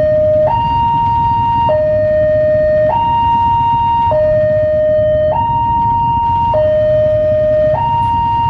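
Level-crossing warning alarm sounding an electronic two-tone hi-lo signal, a higher and a lower tone taking turns about every 1.2 seconds: the crossing is closing for an approaching train. Low traffic rumble underneath.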